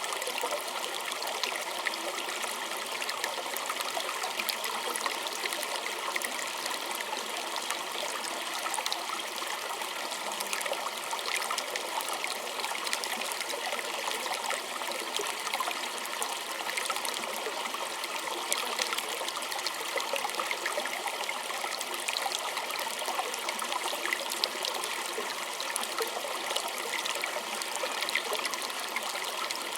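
Small stream trickling and babbling steadily over stones, a continuous splashy hiss with many small droplet ticks and little low rumble.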